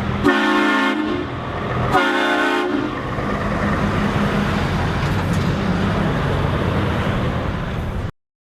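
Train horn sounding two short blasts, then the steady rumble of a running train that cuts off suddenly near the end.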